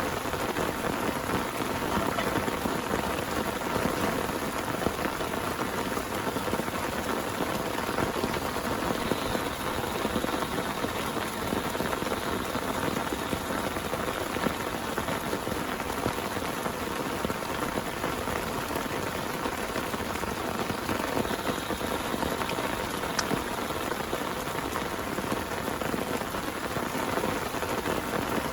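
Heavy rain falling steadily, an even dense patter of drops.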